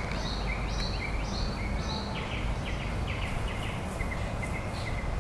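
Birds singing a quick series of short repeated chirped notes, about two a second, over a steady low rumble.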